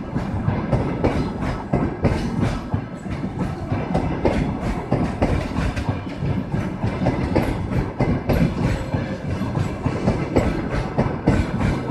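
A passenger train passing at speed, its wheels clattering over the rail joints in a fast, continuous run of knocks over a steady rumble.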